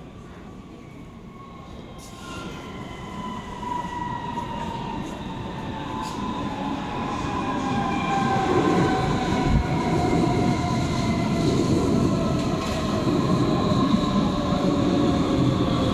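Frankfurt S-Bahn electric train pulling in and braking. Several whines from its electric drive glide slowly down in pitch as it slows, while its rumble grows louder over the first half and then holds steady.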